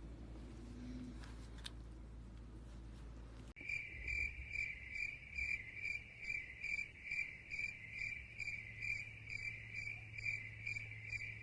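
A cricket chirping steadily, about two high chirps a second, starting abruptly about three and a half seconds in after faint low background noise.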